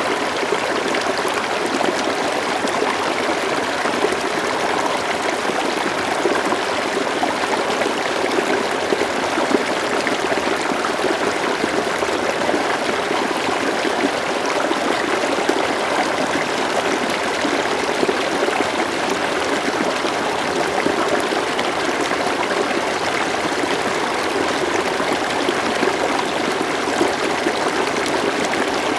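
A slow-flowing river: water running steadily with a constant, even rush.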